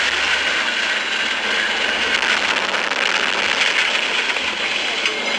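Steady rushing noise of a vehicle in motion, with no clear pitch or rhythm.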